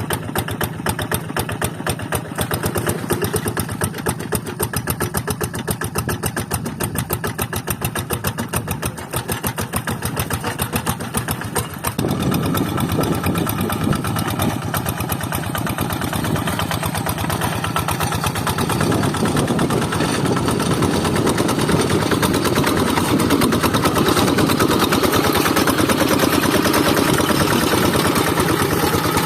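Quick Zeva G3000 hand tractor's single-cylinder Kubota diesel engine running with a rapid, even chugging. About twelve seconds in it gets louder and fuller and stays that way.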